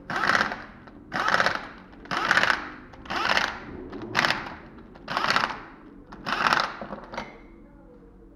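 Ratchet wrench clicking in seven regular strokes, about one a second, as bolts are worked during reassembly of the car's rear axle and driveshaft.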